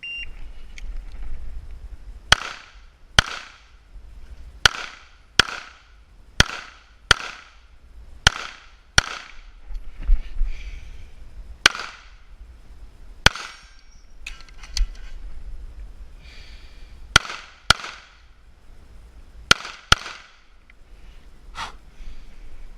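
A short beep, then 9mm pistol shots from a Glock 19 fired in quick pairs (double taps), about sixteen in all. Each pair is about 0.7 s apart, with two longer pauses between strings.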